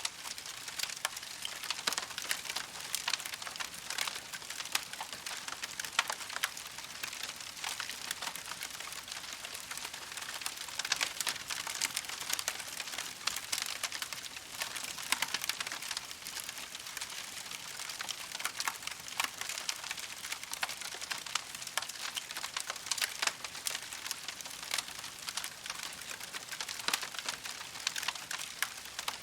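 Campfire crackling steadily, many small pops and snaps over a soft hiss.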